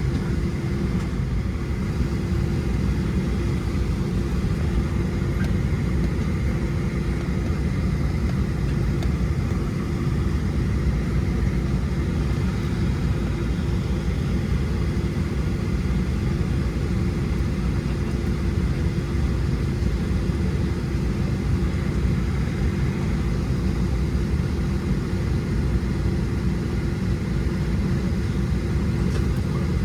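Steady low rumble inside the cabin of a Boeing 737-700, with a constant hum over it: engine and airflow noise heard from a seat, with no rise or fall.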